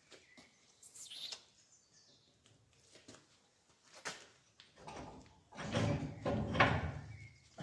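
Scattered clicks and knocks of metal work, then a few seconds of louder scraping and clattering from about five seconds in. A bird chirps faintly near the start and near the end.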